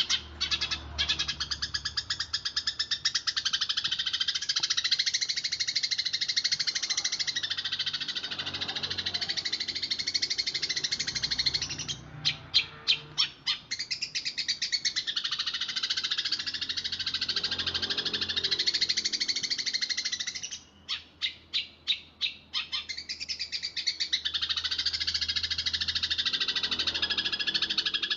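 Eurasian tree sparrow chattering in fast, dense trills, broken twice, about twelve and about twenty-one seconds in, by a short run of separate chirps.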